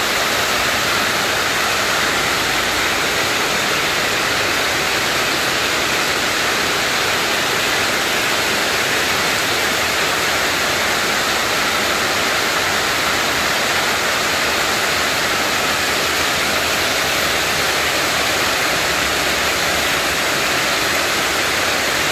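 Heavy rain falling on a corrugated metal roof: a loud, steady, noisy hiss with no let-up.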